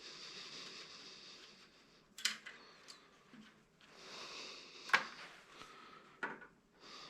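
Scrap parts being handled and pulled apart by hand: stretches of rubbing and scraping with a few sharp knocks and clacks, the loudest about five seconds in.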